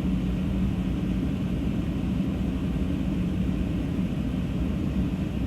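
Steady rumble and rushing air inside the cab of a 2024 Ram 1500 Laramie: the Hemi V8 idling as it warms up after a cold start, with the heater blower running to melt ice off the windshield.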